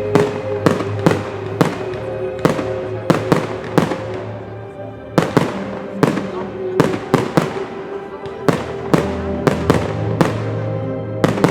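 Aerial fireworks shells bursting in a rapid series of sharp bangs, about two or three a second, with a short lull about halfway through. Music plays underneath.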